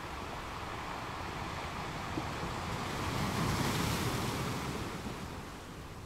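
Ocean surf: a wave swells in about three seconds in and washes back out.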